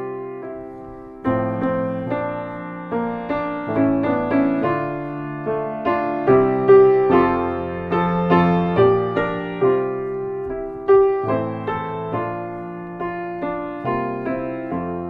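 Solo piano playing a slow introduction to a hymn, each note struck and left to fade.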